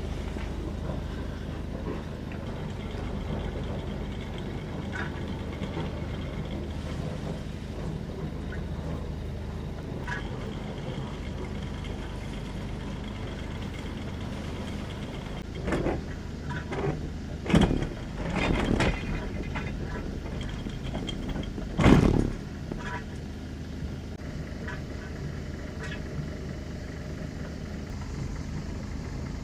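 An engine running steadily with a low hum, interrupted about halfway through by several short, loud sounds, the loudest a little after two-thirds of the way in.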